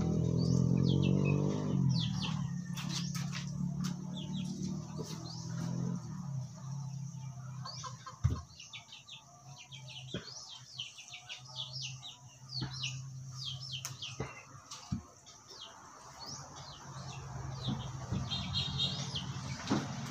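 Small birds chirping again and again in quick short calls, over a low steady hum, with a few sharp knocks from handling.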